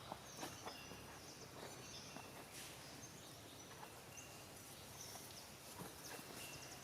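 Faint outdoor ambience with scattered short, high bird chirps and a few small clicks.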